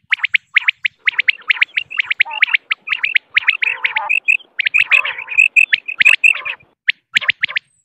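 Female common quail calling: a rapid run of short chirping notes, several a second, with brief pauses just after the start and a little before the end.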